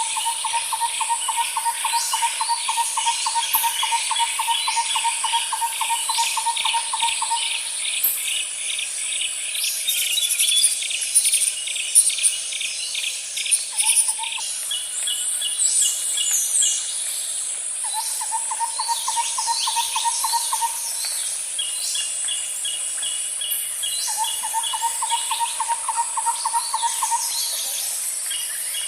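Birds and insects calling together. A low, rapid trill repeats several times, the first lasting about seven seconds, over a steady high insect drone and quick repeated chirping calls.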